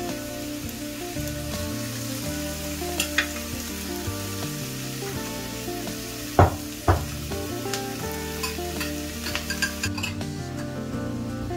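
Stir-fry of cabbage, carrots and chicken sizzling steadily in a steel wok, with small clinks of stirring. Two sharp knocks about six and a half seconds in are the loudest sounds.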